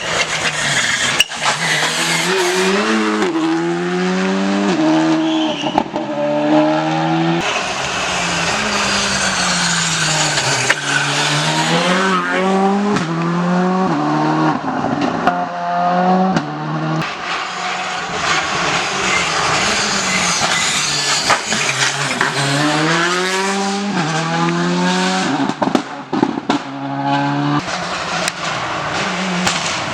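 Rally car engine revving hard, climbing in pitch and then dropping at each gear change, several times over.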